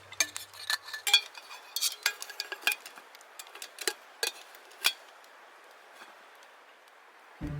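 Campfire crackling: irregular sharp pops and snaps over a faint hiss, busy for the first five seconds and then thinning out.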